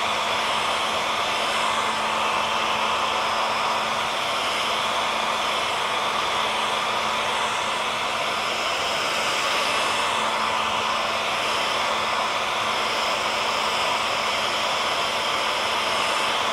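Handheld hair dryer running steadily: an even rush of blown air over a faint constant motor hum, without change.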